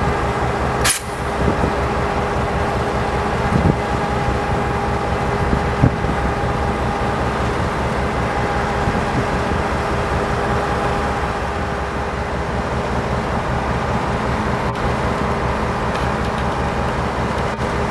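EMD GP38 diesel locomotive's two-stroke V16 engine running steadily: a continuous low drone with a steady whine over it. One sharp click about a second in.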